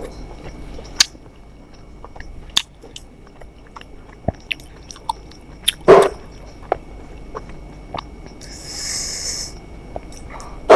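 A person eating close to the microphone: chewing and biting with scattered wet mouth clicks, a louder bite about six seconds in, and a brief hiss near the end.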